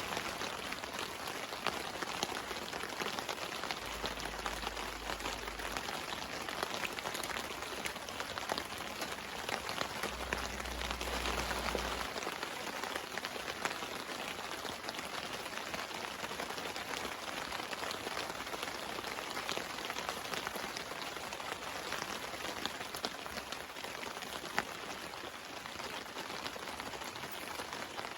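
Steady rain pattering on a camping tarp, a dense even hiss made up of many small drop ticks.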